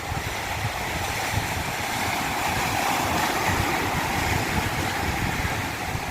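Stream water rushing and splashing over rocks in a cascade: a steady, even rush with a low rumble underneath.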